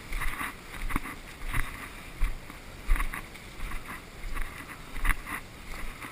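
Footsteps with rustling, in a steady walking rhythm of about one step every two-thirds of a second, each step a soft thud with a scuff.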